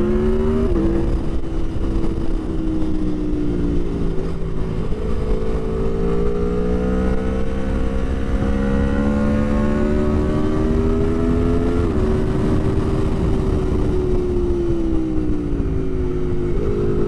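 Aprilia Tuono V4 1100 Factory's V4 engine running under way, its pitch climbing slowly through the gears, stepping at each shift and falling away for a few seconds near the end as the bike slows. Heavy wind rush is heard through a microphone inside the rider's helmet.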